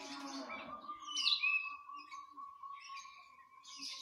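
Songbirds chirping and whistling: sharp high chirps and short phrases, over one long, even note held at a single pitch from about a second in.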